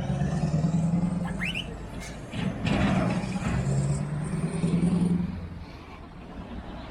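Heavy trucks pulling away, with a low steady drone that shifts in pitch and dies down about five seconds in. A short rising squeal comes about a second and a half in.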